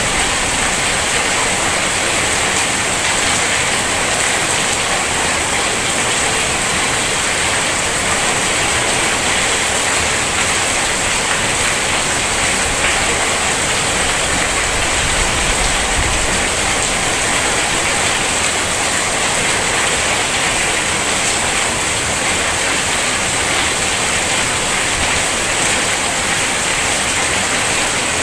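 Heavy rain falling steadily, a dense even hiss of rain on surfaces. A brief low rumble joins it about halfway through.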